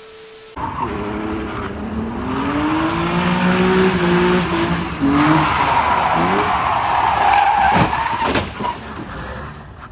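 A vehicle's engine revving, rising in pitch, while tyres skid and squeal. Two sharp knocks come near the end.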